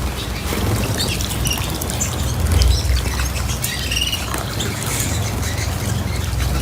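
Small cage birds chirping in short, scattered calls, over a steady low rumble and a few light clicks.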